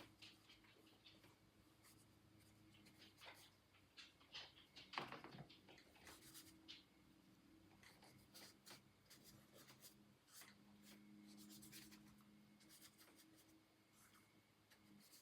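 Quiet, scratchy strokes and taps of art tools working on paper, as in painting or pastel drawing, with the strongest stroke about five seconds in. A faint steady low hum runs underneath.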